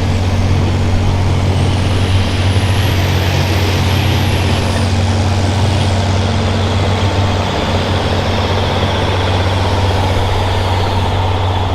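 Diesel farm tractor engine running loud and steady during a pull, with a high whistle that rises and then falls in the first half.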